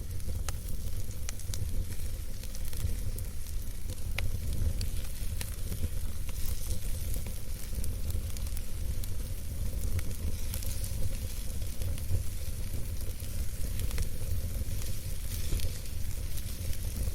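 Wood campfire burning: scattered sharp crackles and pops over a steady hiss and a low rumble.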